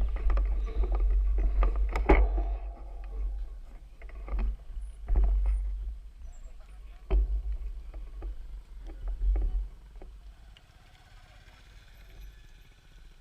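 Wind rumbling on the microphone with knocks and rattles of a bicycle ride, the rumble and clatter easing off about ten seconds in.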